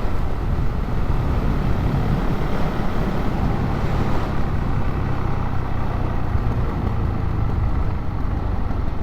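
Motorcycle engine running steadily while riding along the road, with wind and road noise over the rider's microphone.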